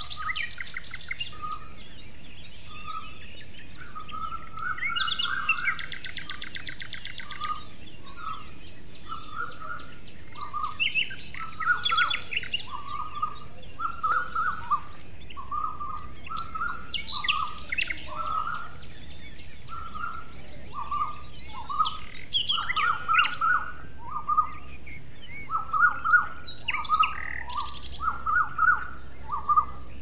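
Several birds calling in woodland. One repeats a short call about once a second throughout, while others add rapid trills and higher chirps over it.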